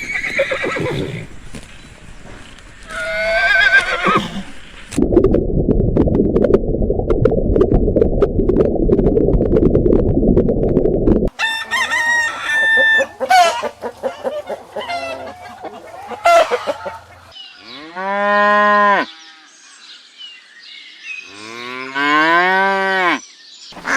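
A run of different animal calls one after another, with a stretch of steady rough noise in the middle. It ends with two long calls whose pitch rises and falls, a couple of seconds apart.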